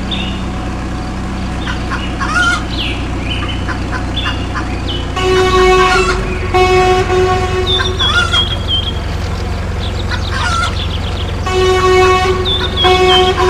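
A vehicle engine running steadily, with a horn blown four times in two pairs of blasts about a second long, and birds chirping here and there.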